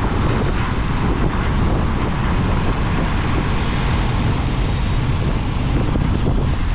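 Steady wind buffeting the microphone on a moving motorcycle, mixed with the bike's running engine and road noise.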